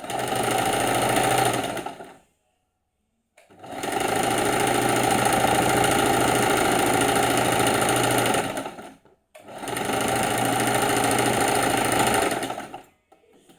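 Sewing machine running in three spells of stitching, about two, five and three seconds long, separated by short pauses. Each spell winds up and winds down, with a steady pitched hum. It is the strange noise the machine makes while sewing.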